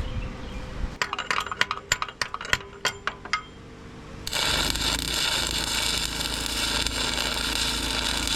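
A quick run of about a dozen sharp metallic taps and clinks. About four seconds in, a stick-welding arc strikes and crackles steadily as a weld is laid on the tractor's steel.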